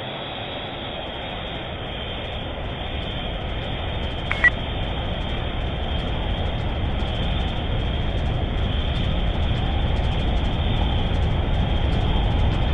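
A steady, rumbling engine-like noise that grows slowly louder, with one short high beep about four seconds in.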